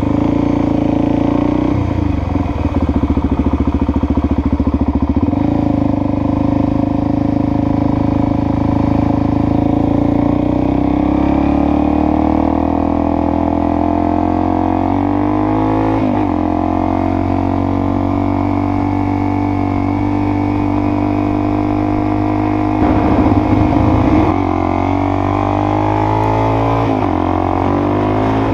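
Suzuki DR-Z400SM's single-cylinder four-stroke engine running under way. Its note climbs as the bike accelerates and drops back at several gear changes.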